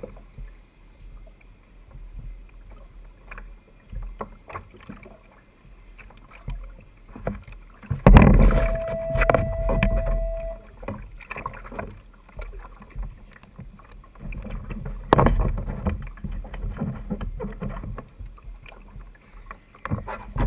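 Water sloshing against a kayak hull with handling knocks on the boat. There is a louder surge of water noise about eight seconds in, under a steady tone lasting about two seconds, and another surge near fifteen seconds.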